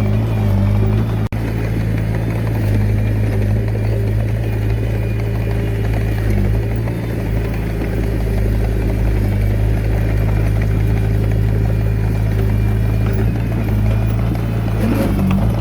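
Komatsu D21A mini bulldozer's diesel engine running steadily, an even low drone that briefly cuts out about a second in.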